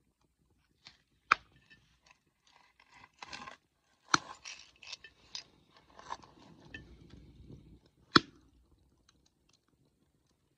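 Wood fire crackling, with three sharp pops about a second, four seconds and eight seconds in, and smaller crackles between.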